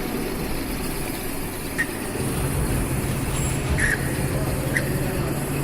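Drilling machine's engine running; a steady low hum sets in about two seconds in, with a few short high chirps over it.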